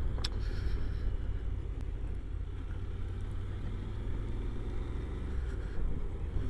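Honda NC750X motorcycle's parallel-twin engine running at a steady cruise, heard as an even low rumble mixed with wind rush.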